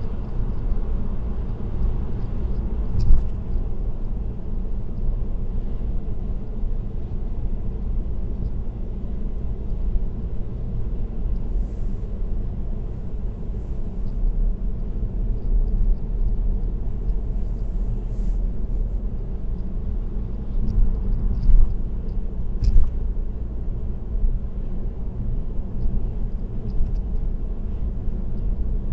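Steady road and tyre rumble of a car cruising on an expressway, with a few brief knocks about three seconds in and again near two-thirds of the way through.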